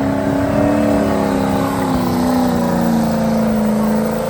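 Truck engine held at high revs, a steady high-pitched drone that wavers slightly and dips a little in pitch midway.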